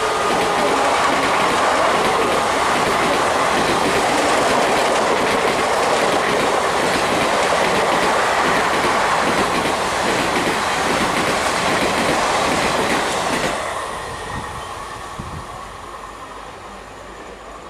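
Express train's passenger coaches running past at speed close by, a loud steady rush of wheels on the rails. About thirteen and a half seconds in, the last coach passes and the sound drops off suddenly, fading as the train runs away down the line.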